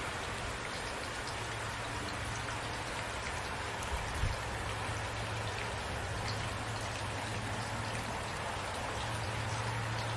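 Steady rain falling, an even hiss with scattered drops ticking on a surface, over a low steady hum. A single soft thump about four seconds in.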